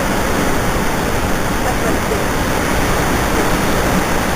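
Steady, loud rushing roar of Niagara Falls' falling water.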